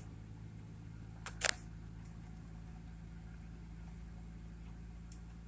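Nissan RB25DE 2.5-litre straight-six idling steadily just after a cold start, heard from inside the cabin. Two sharp clicks come about a second and a half in.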